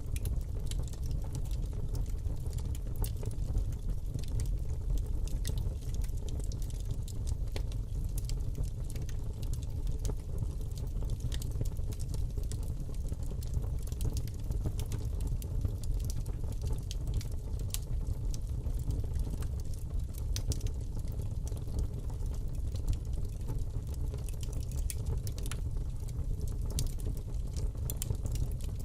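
Fire burning in a fireplace: a steady low rush of flames with frequent sharp crackles and pops.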